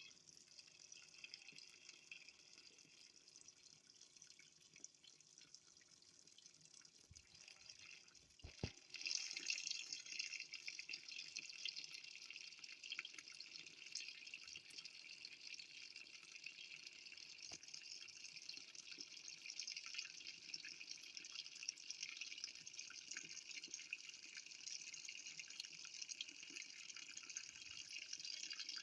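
Faint running water with a steady hiss, growing louder about nine seconds in, just after a couple of short knocks.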